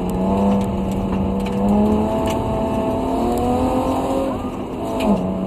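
Rally car's engine pulling under acceleration, heard from inside the cabin. Its pitch climbs over the first couple of seconds, holds, then drops suddenly near the end, over a steady rumble of tyres on gravel.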